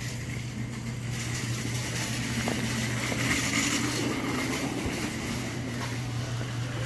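Steady indoor store background noise: a constant low hum with an even hiss over it, likely from the building's ventilation or refrigeration.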